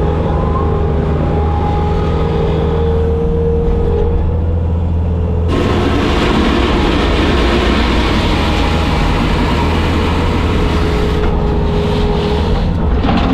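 Bobcat skid steer's diesel engine running steadily, with a drone and a steady whine. From about five seconds in, a broad rushing noise joins it for about six seconds, then drops away.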